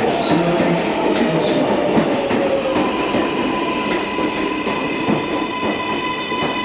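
New York City subway train on the 7 line running, with a steady rumble and rattle of the wheels. A whine slides slowly down in pitch over the first few seconds, then several steady high-pitched tones hold.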